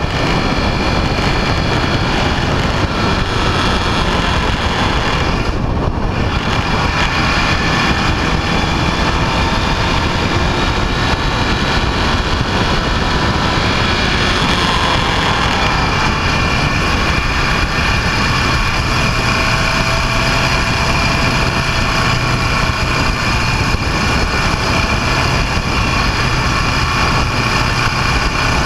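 Vehicle under way: an engine running steadily beneath a constant loud rush of noise, with no change in speed.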